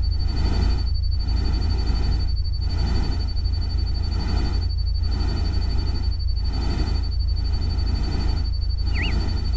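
Synthesized rain-and-stream ambience: a steady hiss over a deep rumble, swelling and fading about once a second. A thin steady high tone like a cricket runs throughout, and one short bird-like chirp comes near the end.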